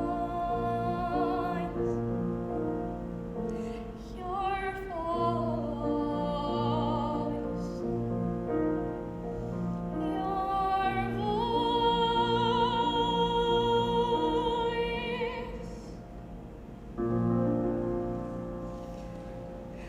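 A woman singing a musical theatre ballad with piano accompaniment, holding a long note with vibrato around the middle. Near the end the piano plays a final chord that rings and fades.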